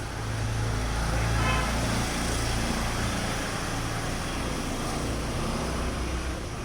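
Steady low rumble with a background hiss, like motor traffic, and a brief pitched sound about one and a half seconds in.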